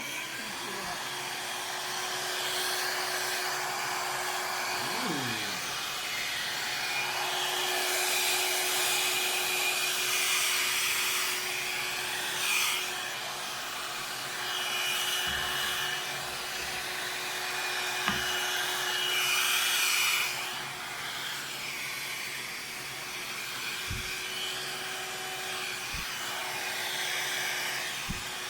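Hair dryer running, blowing air to spread wet acrylic paint, its rushing noise with a steady motor hum growing louder and softer as it is moved around. A few short knocks sound near the end.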